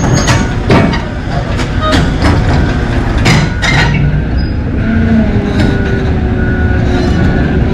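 Trackhoe (tracked excavator) running, with its diesel engine and hydraulics working, and heavy metal clanks in the first few seconds. From about five seconds in, a warning alarm beeps at an even pace, about one and a half beeps a second.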